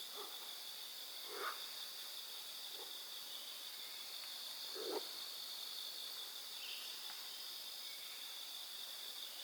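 Steady high-pitched drone of cicadas. A few brief soft snaps or knocks break through it, the loudest about five seconds in.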